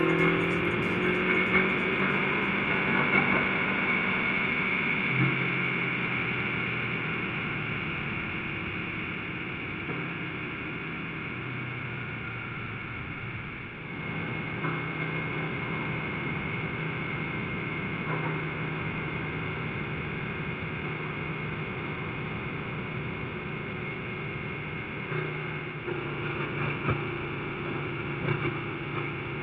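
Motorcycle engine running while under way, over a steady rush of road and wind noise; the engine note holds a steady pitch and shifts to a new one a few times, at about five, fourteen and twenty-five seconds in.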